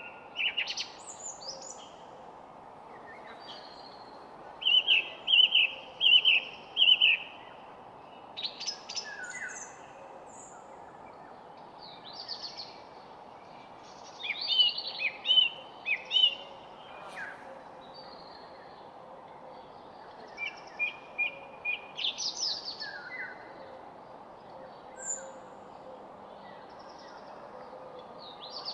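Several wild songbirds singing and calling: clusters of short chirps and quick series of repeated whistled notes, with pauses between, over a steady low background hiss.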